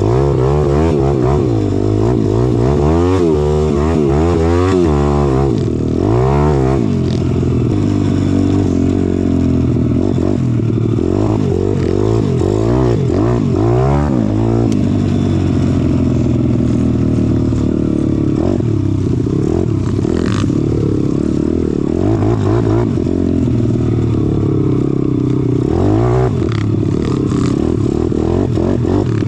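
Pitbike's small single-cylinder four-stroke engine being ridden hard, revving up and falling back again and again, the pitch swinging every second or so at times and holding steadier in between.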